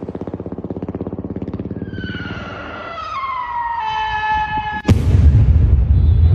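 Firework going off: a rapid buzzing pulse, then a whistle falling in pitch, then a sudden loud bang near the end followed by a low rumble.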